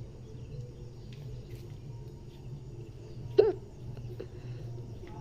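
Peacock (Indian peafowl) giving one loud, short call about three and a half seconds in, with a fainter call just after. Under it run a steady low hum and faint chirps of other birds or insects.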